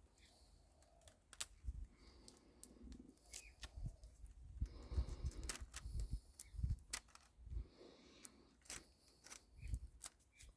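Irregular clicks, snips and light knocks from hand-working the copper windings of a scrapped microwave oven transformer, with a few dull thumps, busiest in the middle.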